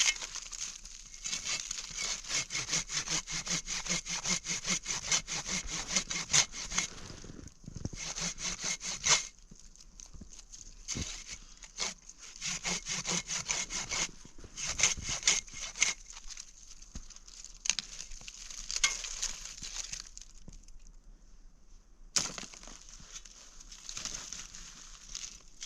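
Hand saw cutting through firewood, in several runs of quick, even back-and-forth strokes, about four or five a second, with short pauses between runs.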